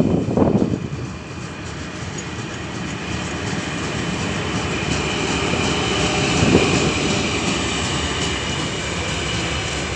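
3ES5K "Ermak" electric locomotive hauling a freight train, running steadily with a whine that grows slowly louder as it comes closer. Wind gusts on the microphone in the first second.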